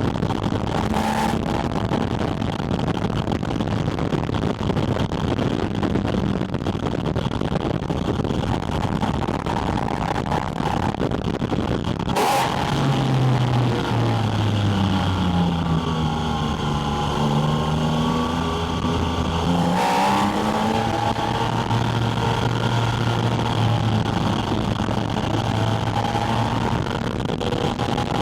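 Porsche 718 Spyder RS's naturally aspirated flat-six engine heard at its air intake, mixed with heavy wind rush while driving. About 12 seconds in a brief crack is followed by the engine note falling and settling low; another short crack comes about 20 seconds in, then it runs steadily.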